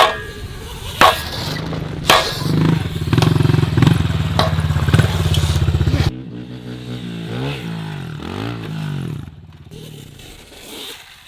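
Off-road vehicle engine running loud and close, with several sharp knocks over it. It then changes suddenly to an engine revving up and down twice and fading away.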